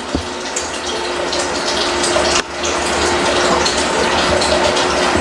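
Water running steadily, growing louder, with a brief break about two and a half seconds in.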